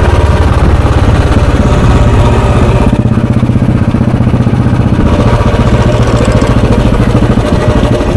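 Royal Enfield Bullet 350's air-cooled single-cylinder four-stroke engine running while the motorcycle is ridden, its exhaust beating in quick, even pulses.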